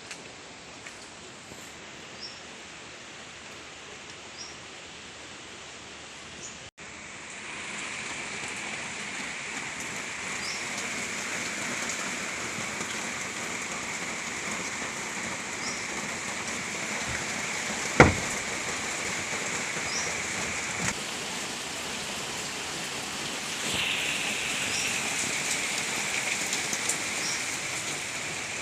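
Steady rain falling, growing heavier after a brief dropout about seven seconds in, with one sharp knock near the middle.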